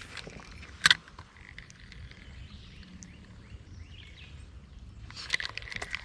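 Quiet outdoor ambience with one sharp click about a second in and a quick run of small clicks and ticks near the end.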